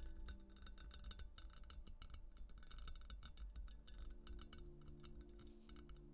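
Quick, continuous scratching on a textured surface: a dense run of small, crisp scratches and ticks, over soft, slow background music.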